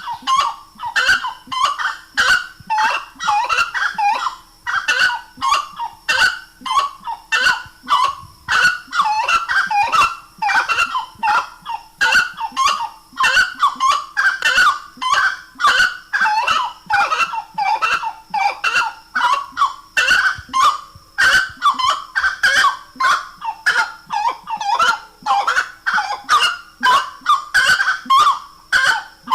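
Grey-cowled wood rail (saracura-três-potes) singing: loud, honking call notes repeated about twice a second without a break.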